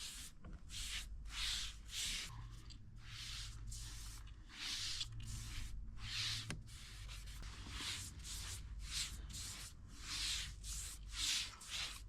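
Steady back-and-forth hand rubbing strokes over the dresser's wood surface, about two scratchy strokes a second.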